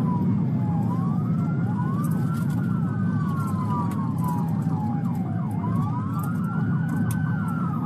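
Police sirens on a wail setting, at least two running out of step, each rising and falling slowly over a few seconds, over a steady low rumble.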